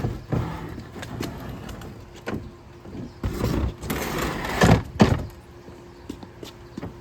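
Empty wheeled plastic trash can being rolled along the ground, its wheels rumbling, loudest from about three to five seconds in. Its body and lid knock several times.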